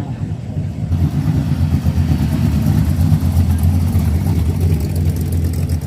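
A car engine running with a deep, steady note, getting louder about a second in.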